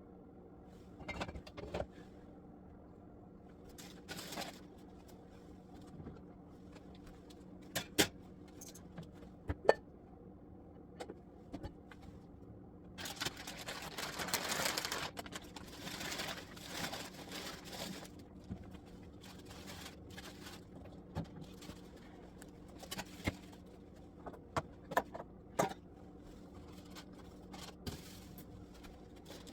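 Scattered knocks and clicks from food containers and dishes being handled, with a few seconds of denser rustling noise about halfway through, over a steady low hum.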